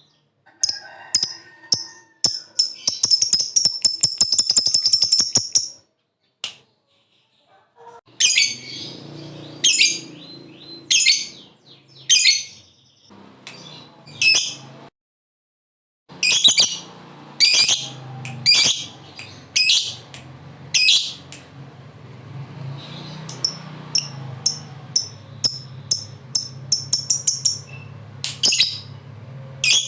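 Lovebirds calling: repeated sharp, high-pitched chirps, with a fast rattling run of calls (the long 'ngekek' chatter) about three to six seconds in. The calling stops twice for a second or two.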